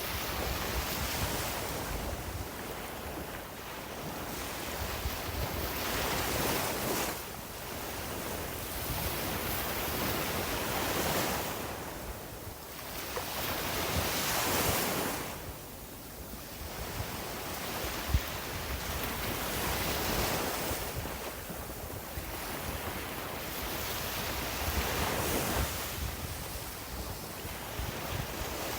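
Sea waves breaking and washing up the beach, swelling and easing every four to five seconds, with a low rumble of wind on the microphone.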